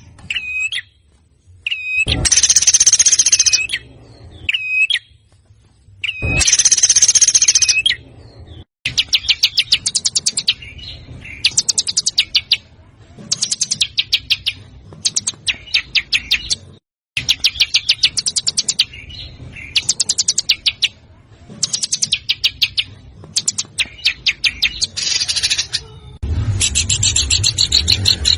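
Recorded songbird song used as a masteran training track: harsh, buzzy high-pitched bursts of about a second and a half alternate with short hooked whistles, then after a brief break the song turns to repeated rapid staccato trills, each phrase about a second long, running almost without pause near the end.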